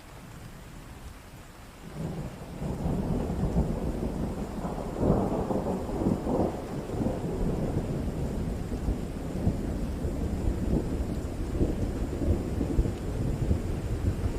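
Steady rain with a long roll of thunder. The thunder starts about two seconds in over the rain hiss, peaks with a few cracks around the middle and keeps rumbling to the end.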